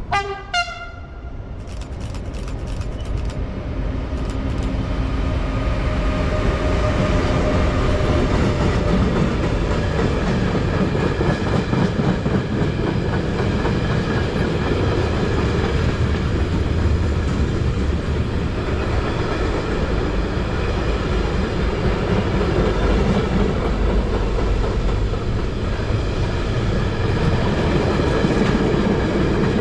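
Train sounding two short horn blasts, then passing at length: a run of sharp clicks from the wheels, then a loud, steady rolling rumble that builds over the first several seconds and holds.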